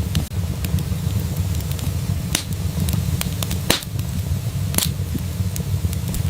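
Wood fire burning in a fireplace: a steady low rumble of the flames with scattered sharp crackles and pops, the loudest about 2.5, 3.7 and 4.8 seconds in.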